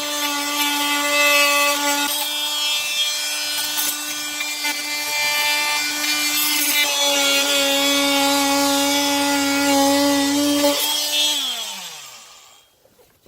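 Electric power saw cutting through hot tub drain plumbing, its motor running at a steady pitch with the blade rasping, easing briefly about two seconds in. About eleven seconds in it stops cutting and winds down with a falling pitch.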